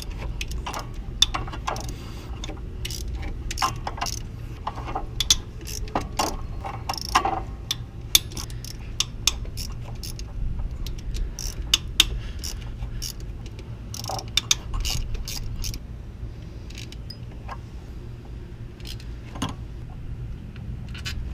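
Socket ratchet clicking in irregular runs as the 10 mm water pump bolts on a Chrysler 3.5L V6 are loosened, with clinks of the tool on metal, over a steady low hum. The clicking thins out after about fifteen seconds.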